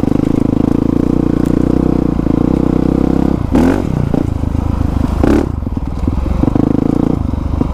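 2020 Honda CRF450R's 450 cc single-cylinder four-stroke engine, fitted with a new exhaust, running steadily under way on a trail ride, with two brief rises in revs about three and a half and five seconds in.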